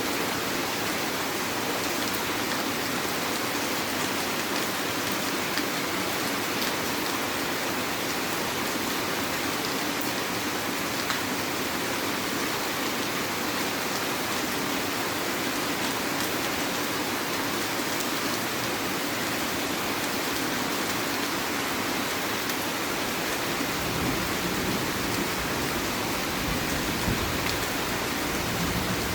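Heavy rain falling steadily, an even hiss of drops on surfaces. A low rumble joins in near the end.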